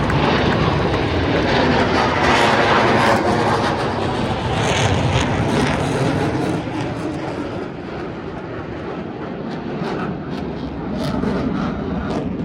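Aircraft engines flying past overhead, loud at first and then fading somewhat about two-thirds of the way through.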